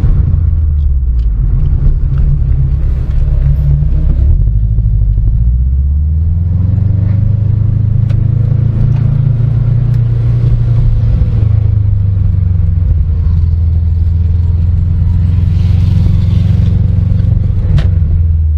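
Car engine running at low revs as the car drives. Its pitch dips about four seconds in, climbs between about six and eight seconds, then holds steady.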